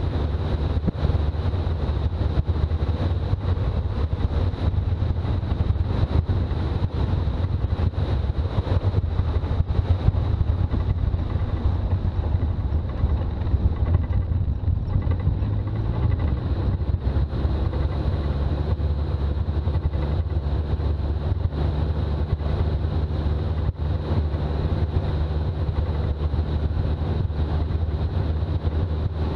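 Toyota BJ40 Land Cruiser's diesel engine and road noise droning steadily while driving, heard as a low rumble; the engine note shifts slightly about halfway through.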